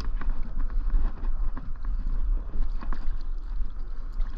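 Wind buffeting the microphone, a steady low rumble, with scattered light knocks and clicks.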